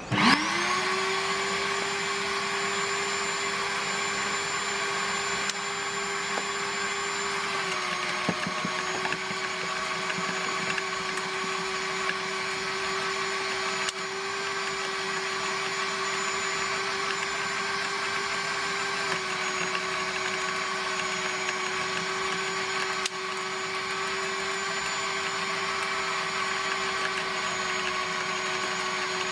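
Mac Allister electric wood chipper switched on: its motor spins up in a second to a steady, high whine and runs on evenly. The pitch steps down slightly about 8 seconds in and again about 19 seconds in.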